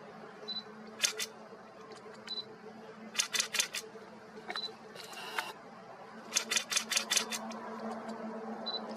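Camera shutter firing in rapid bursts of clicks, a couple at first, then bursts of five to seven. Short high-pitched beeps come between the bursts, over a faint steady low hum.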